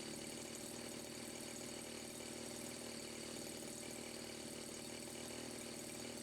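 Turnigy 30cc single-cylinder two-stroke gas engine idling steadily, running now that the excess silicone sealer blocking its carburetor has been cleaned out.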